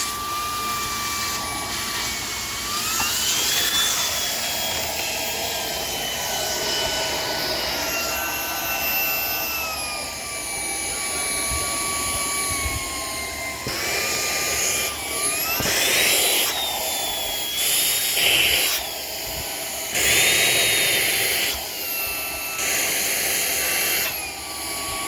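Shark PowerDetect IP1251 vacuum running with its crevice tool, a steady motor whine whose pitch drifts down and steps back up several times. From about the middle on there are several louder bursts of rushing air.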